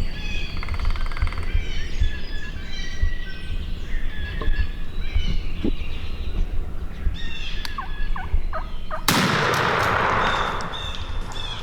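Wild turkey gobbling about half a second in, with songbirds chirping. About nine seconds in, a single loud gunshot cracks and its echo rolls off through the woods over a second or so.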